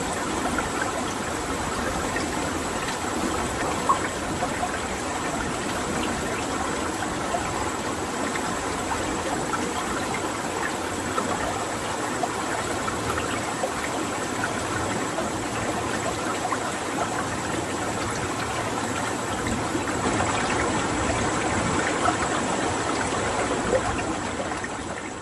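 Steady rush of running water, like a stream or small waterfall, fading out near the end.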